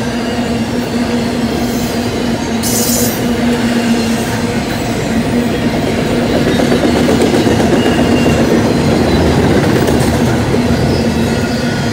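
Intermodal freight train's container and trailer cars rolling past: a steady rumble of wheels on rail, with a steady hum over it, growing a little louder midway.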